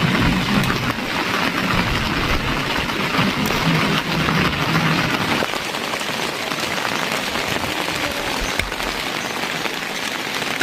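Steady rain falling, a dense, even hiss with no letup.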